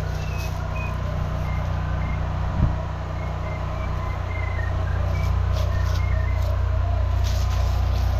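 Engine running in a steady low drone, with short electronic beeps from a drain camera locator that step up and down in pitch as it tracks the camera's sonde in the pipe. A single knock about two and a half seconds in.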